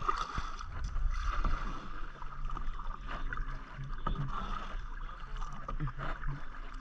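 Kayak paddling: paddle blades dipping and splashing in the water, with scattered short knocks and drips over a steady background hiss.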